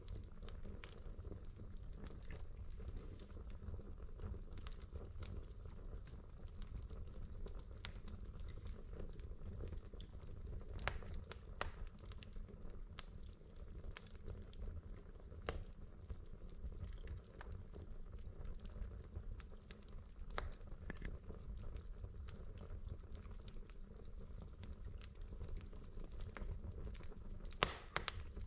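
Wood fire burning in a fireplace: logs crackling with a steady low rumble of flame and irregular sharp pops, a few louder ones standing out, the loudest near the end.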